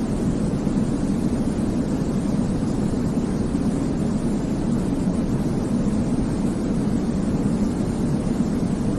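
Steady white noise for baby sleep: an even, deep rushing hiss weighted toward the low end, with no changes or breaks.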